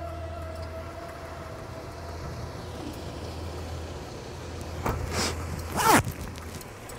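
Car engine idling with a steady low hum, and two short, louder sounds about five and six seconds in.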